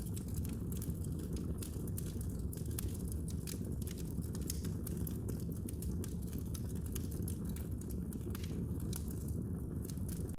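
Wood fire crackling in a fireplace: frequent small pops and snaps over a steady low rumble of burning.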